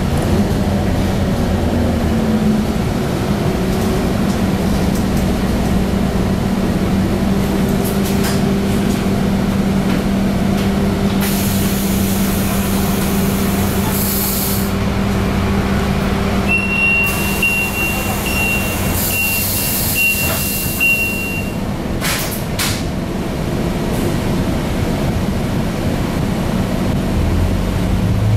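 Scania single-deck bus running steadily, heard from on board, with two loud hisses of air brake release partway through. A run of short high beeps sounds during the second hiss.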